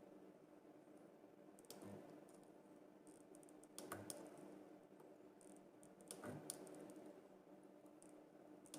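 A few faint sharp clicks about two seconds apart over a low steady hum: a homemade microwave-transformer spot welder firing pulses through the copper electrodes into nickel strip on lithium cells.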